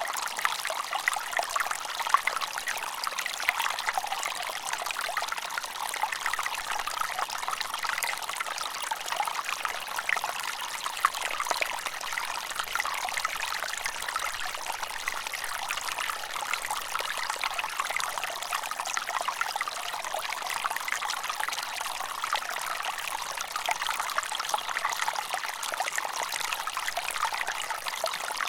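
Water trickling and splashing steadily in a light, unbroken stream of many small splashes, with no deep rumble.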